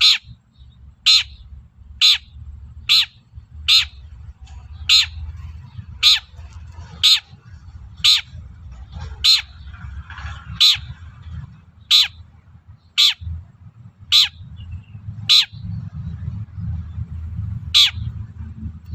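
Long-tailed shrike giving a series of short, harsh, grating calls, about one a second, over a low rumble.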